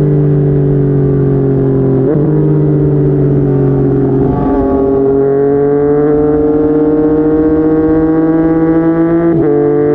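Yamaha MT-09's three-cylinder engine through a Yoshimura R55 slip-on exhaust, running under way with a steady note. The note breaks briefly about two seconds in, around four and a half seconds in and near the end, and its pitch slowly rises between the last two breaks.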